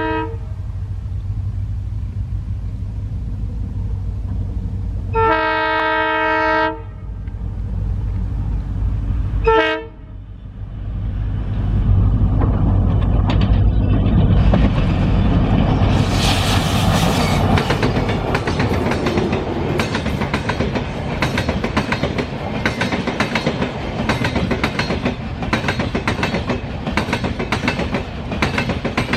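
An EMD WDP4-class diesel locomotive sounds its multi-tone air horn three times over the low rumble of its engine: a blast that ends just at the start, a longer blast about five seconds in, and a short toot near ten seconds. Then the train passes with rising noise and a rapid clickety-clack of wheels over rail joints.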